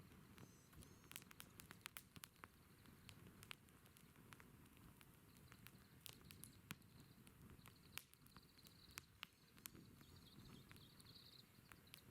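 Wood campfire crackling faintly, with scattered irregular pops and snaps over a low rumble. A faint, thin high-pitched tone comes in about four seconds in.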